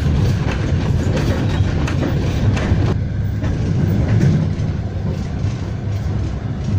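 Passenger train running, heard from inside the carriage: a steady low rumble of wheels on rails, with a few clicks over rail joints in the first half. The sound turns duller about three seconds in.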